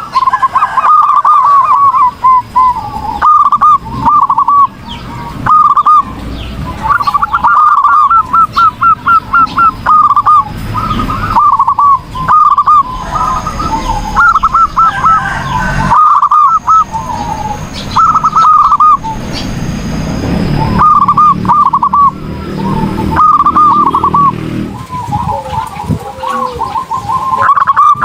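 Zebra doves (perkutut) cooing in full song: repeated short phrases of quick, rolling coo notes, one phrase after another.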